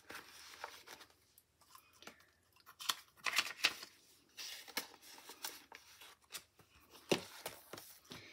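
Paper money and papers being handled: irregular rustling and crinkling with small taps and clicks, busiest about three seconds in and again near seven seconds.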